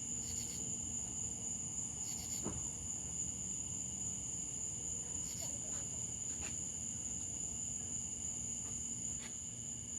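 Crickets chirping in a continuous high-pitched trill, with a few faint scattered clicks.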